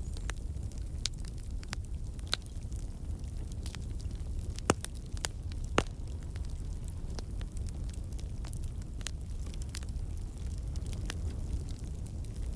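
Campfire logs burning with a steady low rumble of flame and frequent irregular crackles and sharp pops from the wood, two louder pops near the middle.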